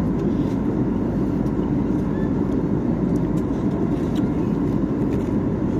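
Jet airliner cabin noise in cruise: a steady, even drone of engines and airflow. A few faint clicks are heard over it.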